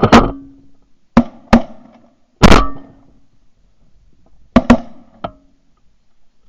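Several shotguns firing a rapid volley at incoming geese: about seven loud shots in uneven clusters, several in quick pairs, each with a short ring after it, the last one lighter.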